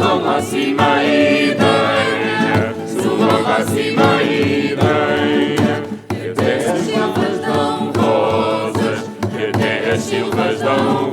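Vocal ensemble singing a song in several-part harmony.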